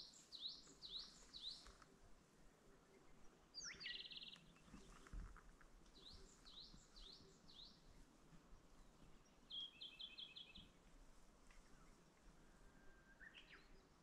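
Faint songbirds calling: a phrase of four or five quick falling whistled notes at the start, repeated about six seconds later, with a short buzzy trill between and a rapid run of short notes about ten seconds in.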